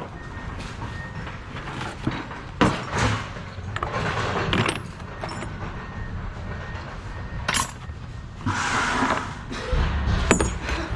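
Scrap metal being handled and sorted: a few separate knocks and clanks, with a short scraping rattle near the end, over a steady low rumble.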